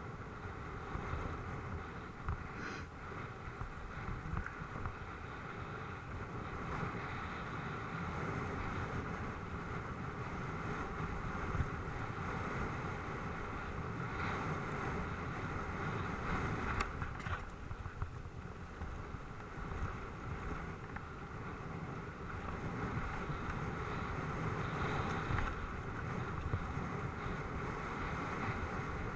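Wind rushing over the microphone and a low rumble from the tyres of a Specialized Enduro mountain bike riding over dirt, with a few sharp knocks.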